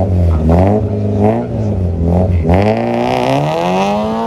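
Rally car engine revving up and down in quick blips on the start line, then, about two-thirds of the way in, one long rising rev as the car launches away and accelerates.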